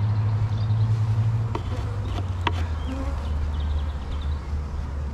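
Honeybees buzzing in a steady low hum over an open hive, the hum dropping slightly in pitch about two seconds in. A couple of light clicks sound in the middle.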